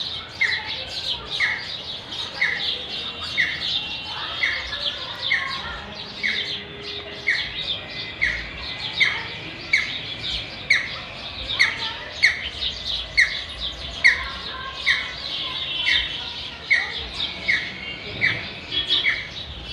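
Several birds chirping together in a busy chorus. One short call repeats evenly, a little faster than once a second, over many quicker, higher twitters.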